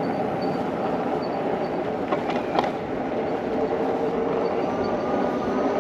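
eAhora electric bike riding along, with steady wind and rolling noise and a faint high squeak from the bike recurring about twice a second. Two sharp clicks a little over two seconds in.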